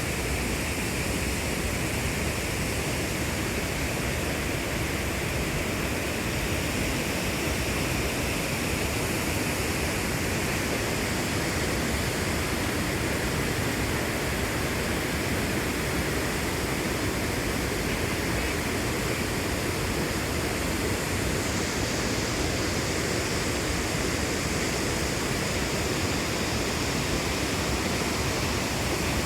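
Rushing water making a steady, even rush of noise with no breaks.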